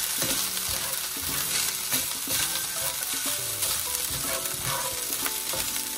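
Fried rice sizzling in a hot cast-iron skillet while it is tossed and stirred with a spatula, with a steady frying hiss and short scrapes of the utensil against the pan.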